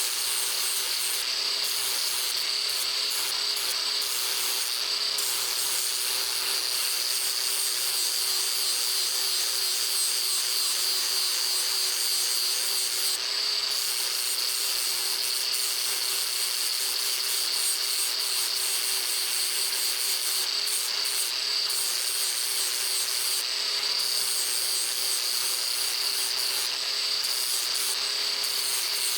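Electric power tool running steadily at constant speed, a continuous hum over a hiss.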